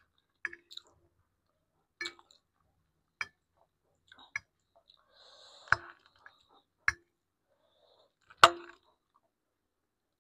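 Eating sounds from a person eating black bean noodles: about eight scattered sharp clicks and clinks, several with a short ring, the loudest near the end, and a brief stretch of chewing in the middle.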